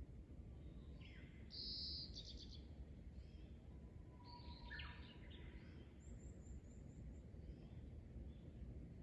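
Wild birds chirping and calling, faint, with a quick run of short high notes about six seconds in, over a steady low background rumble.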